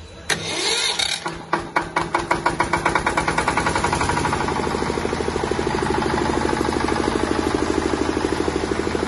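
Bajaj diesel generator set's engine starting: it fires suddenly about a third of a second in, runs unevenly while picking up speed, then settles into a steady, fast knocking run by about four seconds in.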